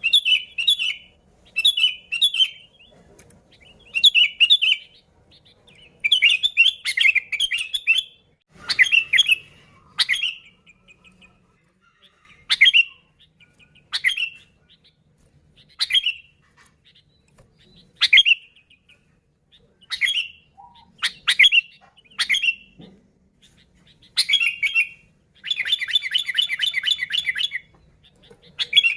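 Sooty-headed bulbul calling: short bubbly chirping phrases, then a run of single sharp, falling notes about every two seconds, and a fast chattering trill near the end.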